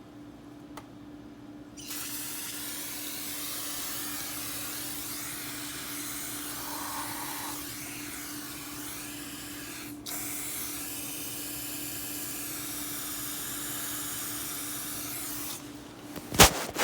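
Aerosol insecticide sprayed in one long hissing burst lasting about fourteen seconds, with a brief break around ten seconds in, over a steady low hum. A few sharp knocks near the end.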